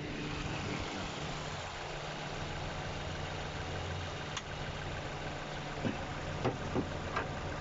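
Suzuki Ertiga engine idling steadily, with a few light clicks and knocks, one about four seconds in and several near the end.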